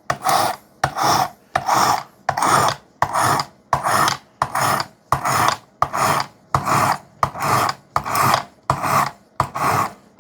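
A sharpening stone on a Work Sharp guided sharpener, stroked along the edge of a hard 3V steel knife blade in even, rasping passes, about three strokes every two seconds. The strokes grind the edge to raise a burr.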